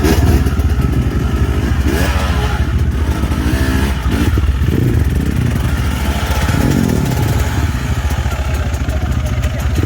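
Dirt bike engine revving up and down repeatedly while being ridden, with some clatter from the bike.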